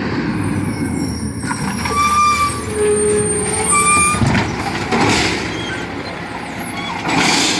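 Garbage truck engine running close by, with a few brief high squealing tones about two and four seconds in.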